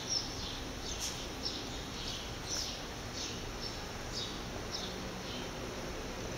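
Small birds chirping: short high notes, each dropping slightly in pitch, roughly two a second, over a low steady background hum.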